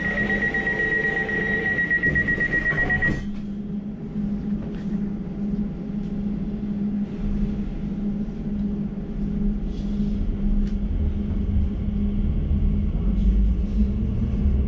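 Elizabeth line train's door-closing warning tone, a steady high beep that cuts off about three seconds in, then the train pulling away: a low rumble that grows louder, with a faint rising motor whine near the end.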